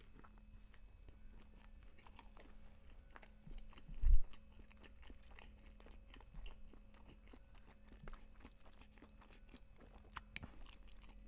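Close-miked biting and chewing of a McDonald's spicy crispy chicken sandwich, heard as many small mouth clicks spread through the chewing. A single low thump about four seconds in.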